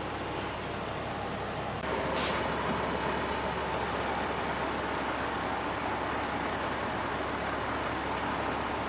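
A large vehicle's engine running steadily, growing louder about two seconds in, with a short hiss of released air just after.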